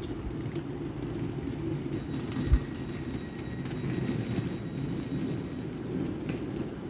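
Class 150 diesel multiple unit moving away along the station line, its diesel engine rumbling steadily under wind noise on the microphone, with a single low thump about two and a half seconds in.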